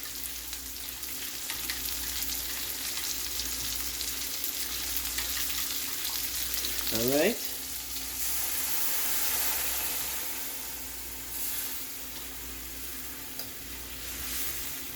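Curried bird meat sizzling steadily in a hot cooking pot.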